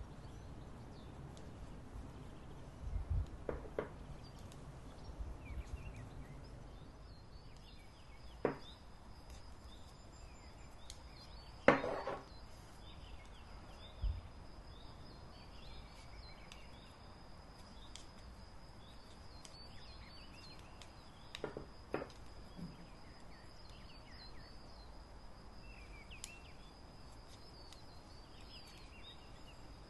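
Wild birds calling and singing softly, with a thin steady high tone setting in about a quarter of the way through. A few sharp clicks or taps sound now and then.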